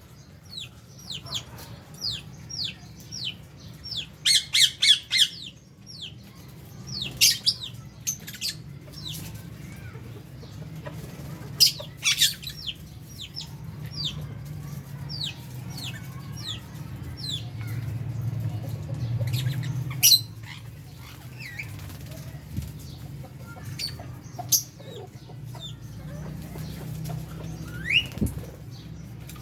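A flock of lovebirds calling with short, shrill chirps and squawks that slide downward in pitch, a quick cluster of them about four to five seconds in and scattered calls the rest of the time, over a steady low hum.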